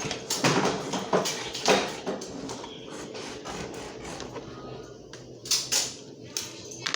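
Tabletop handling noise: a run of small taps, clicks and rustles, several sharp ones in the first two seconds and a few more near the end.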